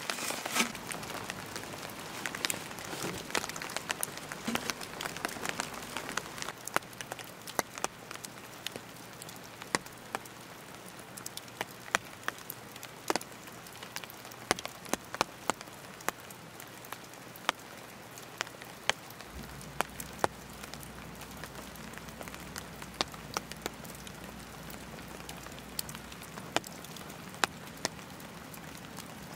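Steady rain falling, with scattered sharp ticks of individual drops hitting nearby surfaces.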